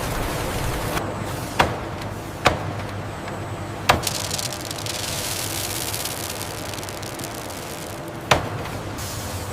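Factory-floor noise: a steady mechanical rumble broken by four sharp knocks, with a hiss in the middle.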